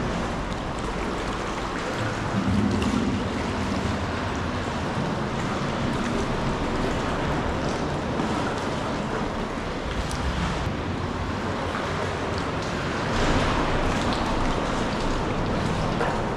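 Sea water washing and splashing around a sea kayak, a steady surge that swells twice.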